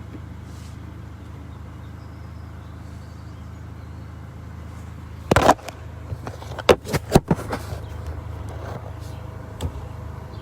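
Car engine idling steadily. About five seconds in there is a loud thump, followed by a quick run of clicks and knocks.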